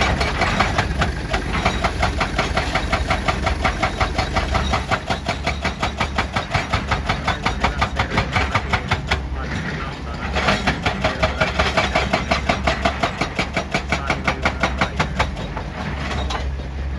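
Excavator-mounted hydraulic breaker hammer pounding rock in a fast, even rhythm of sharp blows, several a second, over the excavator's engine drone. The hammering stops briefly about nine seconds in, then resumes, and stops again just before the end.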